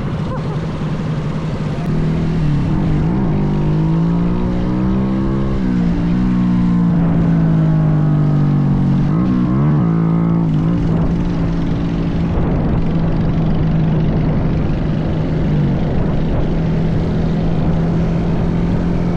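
Minibike engine running, its revs rising and falling several times as the throttle is opened and eased off, sharply dropping and climbing back about three times.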